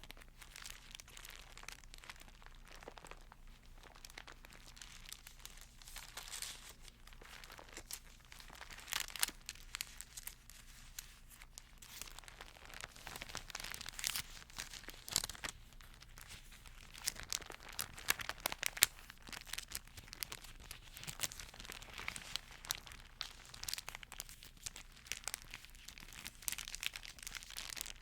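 Thin Bible pages being handled and turned, rustling and crinkling with a dense run of small crackles and taps.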